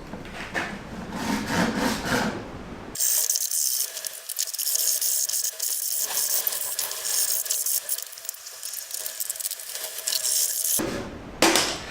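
The container for a home-built furnace's outer shell being cut down with a tool: handling noises, then from about three seconds in a continuous harsh cutting noise that stops suddenly near eleven seconds, followed by a couple of knocks.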